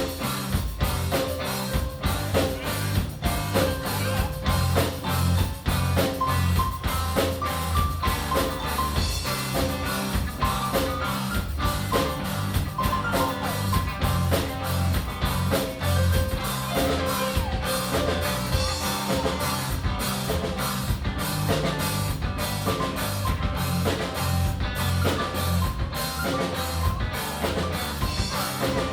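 Rock band playing live: drum kit driving a steady beat under bass guitar, electric guitar and held keyboard notes.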